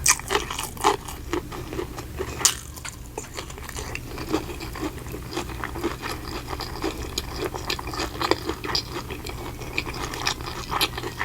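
Close-miked eating: crunching bites and chewing in a quick, irregular run of crisp clicks, with the loudest bites near the start and about two and a half seconds in, over a steady low hum.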